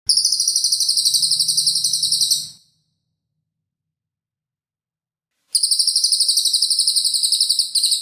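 A songbird's sharp, harsh, rasping trill ('mbeset' or 'tembakan' call), fast-pulsed and high-pitched, delivered in two bursts of about two and a half seconds each with a silent gap between.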